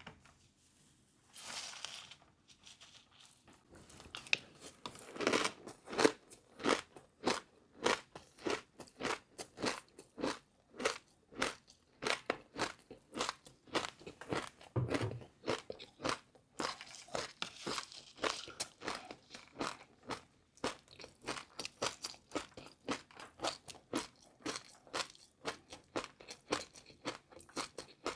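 Close-up eating sounds of crunchy food being chewed: a steady run of sharp crunches, about two to three a second, starting a few seconds in.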